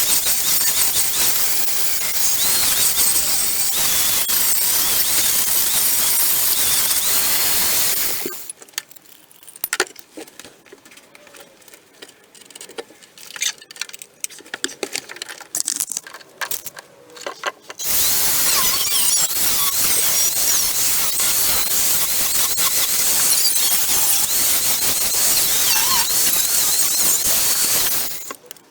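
A handheld power tool grinding on steel car bodywork in two long runs of about eight and ten seconds. Between them there is a quieter stretch of light clinks and knocks.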